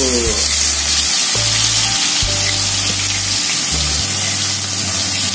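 Ground spice paste sizzling loudly and steadily as it fries in hot oil in a wok.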